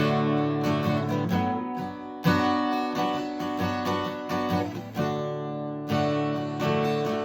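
Instrumental song intro: acoustic guitar strumming sustained chords, with a new chord every second or two.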